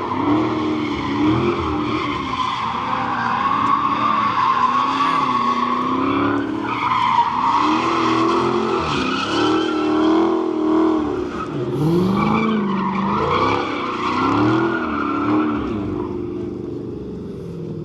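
Car engine revving up and down over and over, about every one to two seconds, while its tyres squeal steadily: a car spinning donuts.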